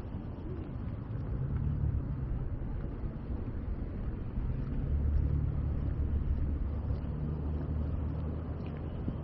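Low, steady engine rumble that swells about a second and a half in and grows strongest about five seconds in.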